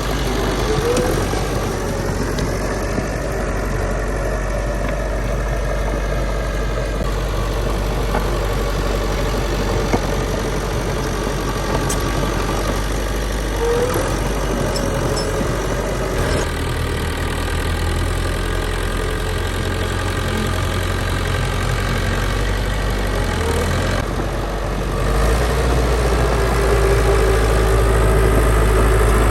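Heavy diesel engines of earthmoving machinery running steadily. The engine note grows louder about 16 seconds in and again near the end, with a few brief squeaks along the way.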